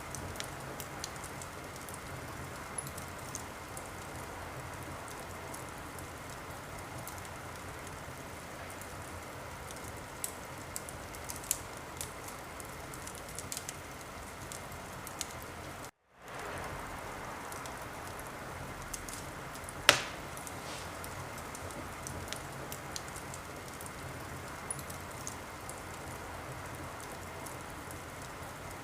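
Wood fire in a fireplace, burning with a steady hiss and scattered crackles, and one loud pop about two-thirds of the way through. About halfway the sound cuts out for a moment and fades back in.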